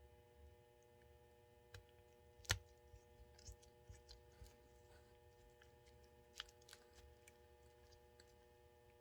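Faint scattered clicks and taps of small plastic and metal parts being handled and fitted during reassembly of an HO-scale model locomotive, with one sharper tap about two and a half seconds in, over a low steady hum.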